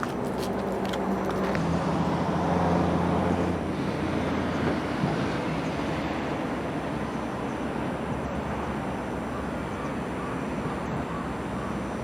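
Motor vehicle going past, a low engine hum that swells a couple of seconds in and then fades into steady road noise.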